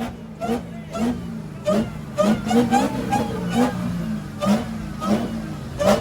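A car engine idling and being revved in short, quick throttle blips, about two a second, each a brief rise in pitch.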